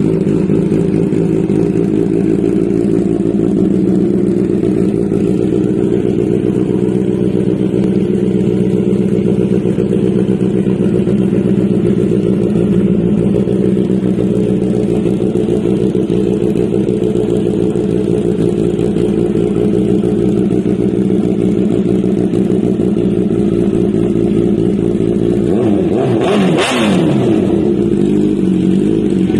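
Honda CBR1000RR inline-four idling steadily through an SC Project CRT titanium exhaust, with one quick blip of the throttle near the end that rises and falls back to idle.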